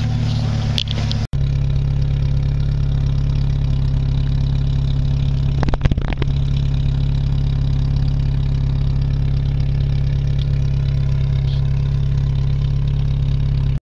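1995 Jeep 2.5-litre four-cylinder engine idling steadily after a cold start, with a couple of brief knocks about six seconds in. The sound cuts off abruptly at the end.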